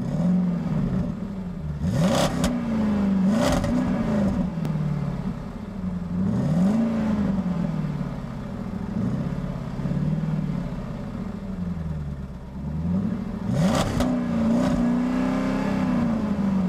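Car engines revving as cars pull away one after another. The engine pitch climbs and drops repeatedly, with a few short, loud bursts of noise.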